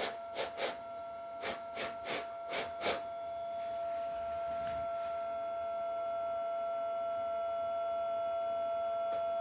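About eight short puffs of breath blown into the smoke stack of an MTH model locomotive in the first three seconds. Under them runs the steady whine of the smoke unit's fan motor, followed by a steady hiss.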